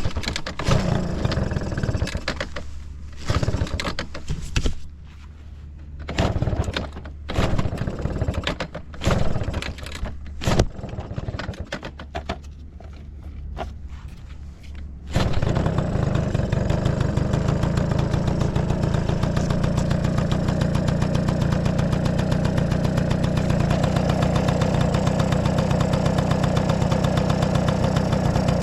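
Honda Motocompo AB12's small two-stroke engine being started: a series of brief bursts as it is cranked and fires in fits, then about halfway through it catches and settles into a steady, even idle.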